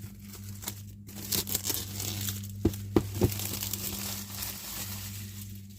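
Plastic wrapping being torn and crinkled off a plastic model kit box, a dense crackle with a few sharp clicks about three seconds in.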